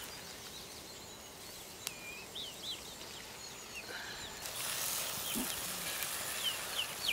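Faint outdoor birds chirping in short repeated calls. A soft hiss comes in a little past halfway.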